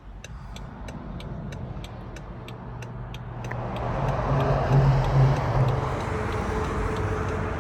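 A car's turn-signal indicator ticks about three times a second over a running engine. After about three and a half seconds the ticking stops, and engine and road noise swell as the car pulls away.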